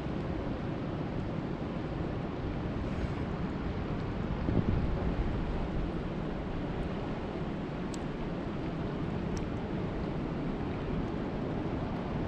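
Steady rushing noise of lake water with wind buffeting the microphone, mostly a low rumble, swelling briefly about four and a half seconds in.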